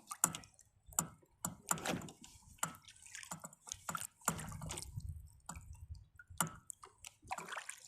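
Kayak paddle dipping into the water, with irregular small splashes and drips.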